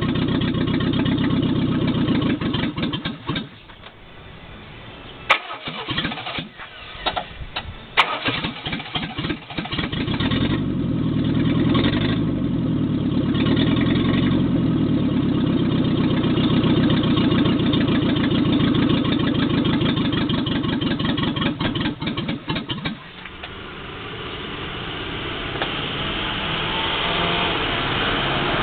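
Renault R16's freshly rebuilt four-cylinder engine running loud with no exhaust fitted. It falls away about three seconds in, sputters with sharp pops, and catches again about ten seconds in. It dips briefly near the end, then revs up gradually.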